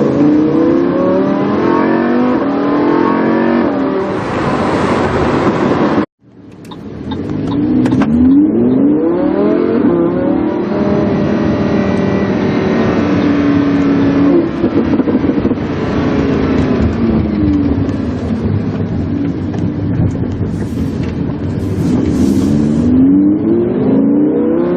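Lamborghini Huracán's V10 engine through a PowerCraft aftermarket exhaust, driven hard: the pitch climbs repeatedly as it accelerates through the gears, holds, then falls away. The sound cuts out abruptly for a moment about six seconds in and comes back climbing.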